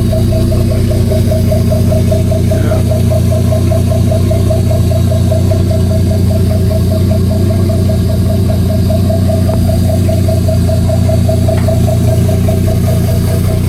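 New Mercury 225 outboard motor running steadily at low speed, a constant low engine note with a fast, even pulse.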